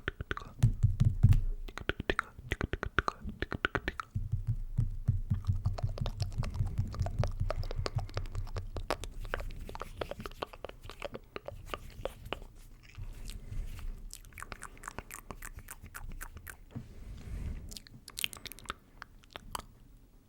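Close-miked ASMR mouth sounds: rapid wet clicks and smacks, with stretches of low rumbling in between.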